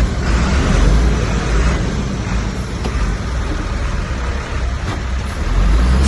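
Heavy diesel earthmoving machinery running with a deep engine rumble that swells about a second in and again near the end, with a few faint knocks.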